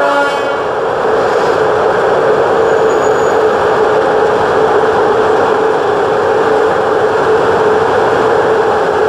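Train running on the rails with a steady, loud rolling noise. A brief tone at the very start dies away within half a second.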